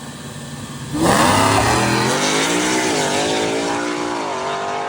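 Old drag-racing truck's engine held at the line, then launching hard about a second in: a loud wide-open-throttle run with the pitch climbing and dropping back twice at gear changes.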